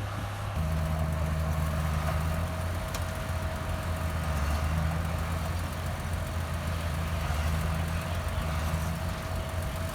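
Heavy diesel engine of earthmoving machinery running steadily at low revs, with a faint steady whine above the engine note. The engine note changes about half a second in.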